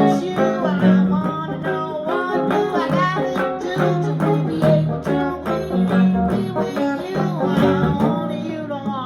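Guitar music: a run of plucked and strummed notes, some of them bending in pitch, with no words.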